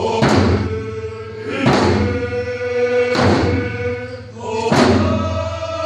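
A group singing a Pacific Northwest Coast tribal song in held, chanted notes, with hand drums struck together on a slow, steady beat about every one and a half seconds.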